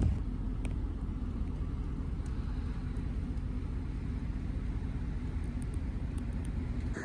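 A vehicle engine running steadily: a low, even rumble.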